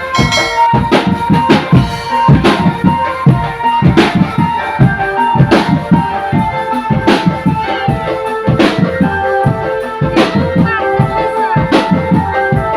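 Drum band playing: a steady beat of drums with a heavier crash about every one and a half seconds, and a sustained melody line held over it.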